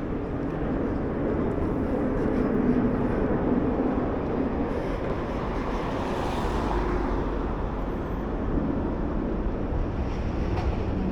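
Steady low rumble of passing traffic in a city street, swelling briefly about six seconds in.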